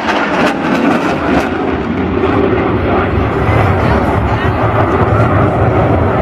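Airplane engine noise at an air show, a steady dense rush, with indistinct voice from the public-address system mixed in.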